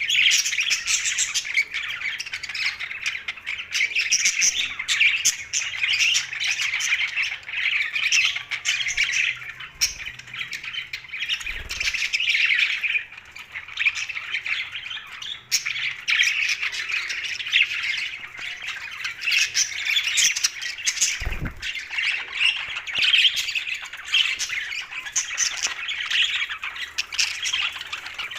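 Budgerigars chattering and squawking continuously, a dense stream of short, overlapping calls, with an occasional low thump.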